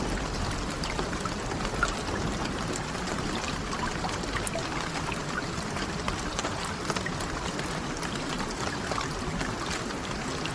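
Steady rain, an even hiss dotted with many small ticks and pops.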